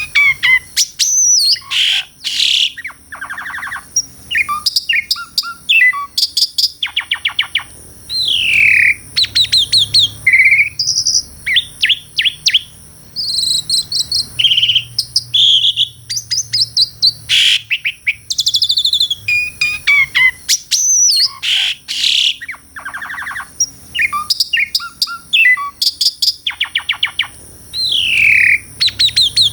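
Asian pied starling (jalak suren) singing a long, varied song: whistled notes, falling slurred glides and fast rattling trills, in phrases separated by short pauses.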